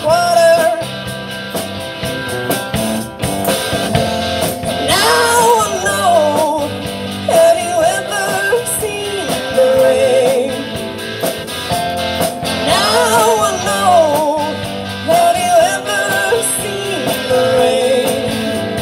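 A live rock band playing an upbeat song, with a wavering lead vocal or guitar line over strummed guitars, bass and a steady drum beat.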